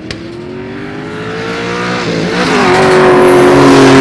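Car engine accelerating hard at a roll race. The engine note climbs, drops at a gear change about two seconds in, then pulls steadily as it grows louder.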